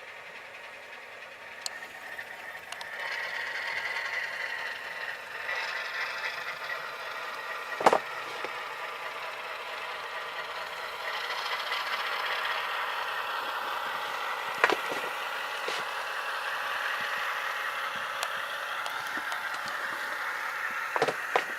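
Tsunami sound decoder in an Atlas RSD-4/5 model locomotive playing diesel engine sound through its small onboard speaker, mixed with rattle. The engine sound gets louder a few seconds in and again about eleven seconds in. Sharp clicks come once about eight seconds in, once about fifteen seconds in, and in a quick cluster near the end.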